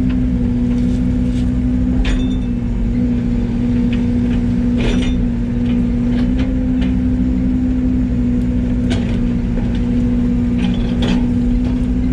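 Yanmar ViO80 compact excavator's diesel engine running steadily under work, with several sharp clicks and knocks from the machine handling brush.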